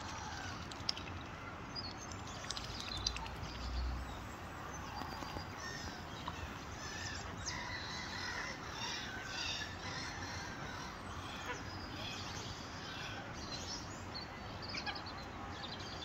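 Birds calling: a run of short chirps and calls, thickest from about seven to twelve seconds in, with a couple of sharp ticks in the first three seconds.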